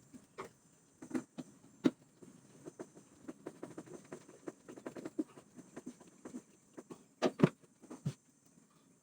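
Irregular light taps and knocks, with a few louder knocks about two seconds in and again around seven seconds.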